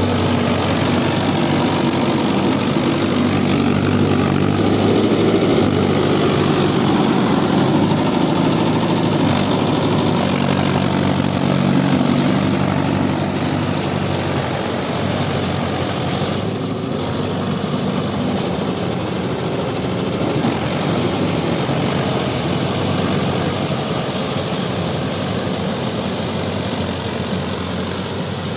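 Mahindra Yuvo Tech Plus 585 DI tractor's diesel engine running steadily while working a rotavator through waterlogged mud.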